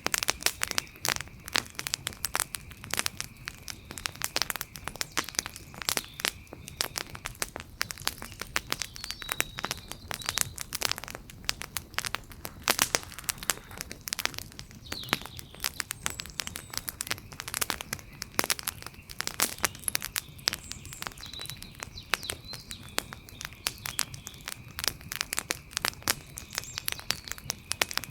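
Wood campfire crackling steadily, with dense irregular pops and snaps throughout. A faint steady high-pitched tone and a few brief chirps sound underneath.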